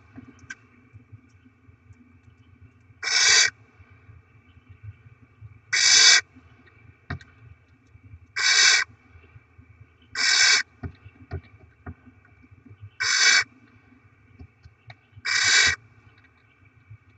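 Barn owl chicks making their rasping, hissing begging calls: six short bursts about every two to three seconds.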